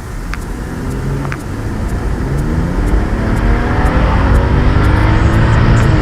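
2015 BMW 535i's turbocharged 3.0-litre inline-six on its stock muffler, accelerating: the engine note rises steadily in pitch and grows louder from about two seconds in. It is not loud at all.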